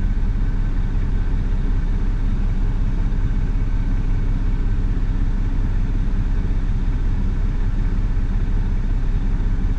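Diesel truck engine running steadily at low speed, a constant low engine hum with no change in pitch.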